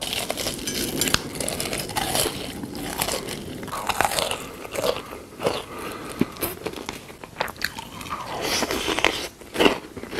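Close-miked eating sounds: a person biting and chewing crunchy food, in irregular crunches and mouth clicks.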